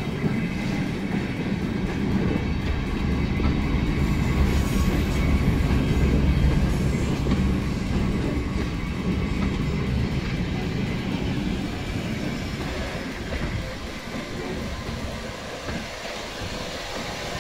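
Train of passenger coaches rolling past on the track: a steady low rumble of wheels on rail, loudest around the middle and fading near the end.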